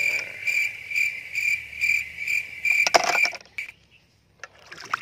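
A steady, high-pitched insect-like trill pulsing about twice a second, which stops suddenly a little over three seconds in, just after a sharp click.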